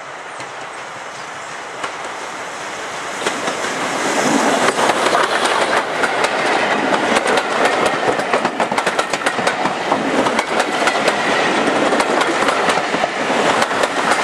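Steam-hauled train running past, its wheels clattering over the rail joints. It builds from about three seconds in and stays loud.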